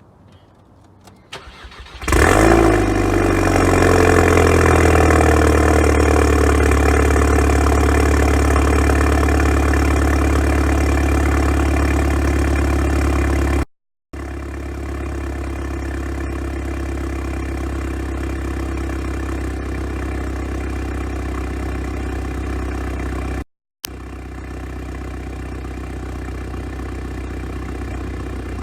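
Volkswagen MK6 GTI's turbocharged 2.0-litre four-cylinder cold-starting about two seconds in: a quick crank, a loud flare, then settling into a steady fast idle through a catless downpipe with the resonator deleted. The sound cuts out completely twice, the idle a little quieter after each break.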